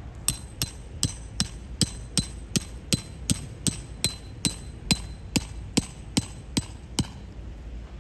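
Hammer driving a metal tent stake into the ground: about eighteen steady blows, roughly two and a half a second, each with a slight metallic ring, stopping about a second before the end.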